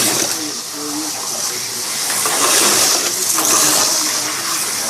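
HO slot cars racing around the track: a steady high whirring hiss from the small motors and tyres, swelling for about a second near the middle as cars pass close by.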